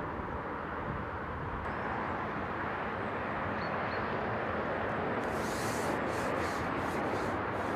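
Steady outdoor background noise with no clear single source. Light rustling comes in brief bursts from about five seconds in.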